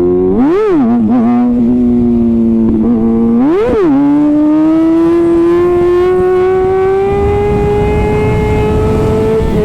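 Kawasaki ZX-6R inline-four sport bike engine through an Arrow titanium exhaust. The revs are blipped up and down sharply twice, about half a second in and again about three and a half seconds in, with a few smaller flicks between. It then settles into a steady pull in gear, the pitch climbing slowly, with wind and road noise underneath.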